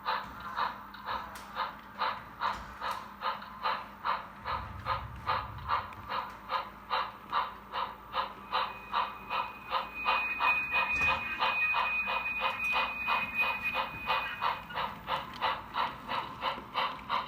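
Model train running along the layout, making an even rhythmic clicking about four times a second. A steady high-pitched tone sounds through the middle few seconds.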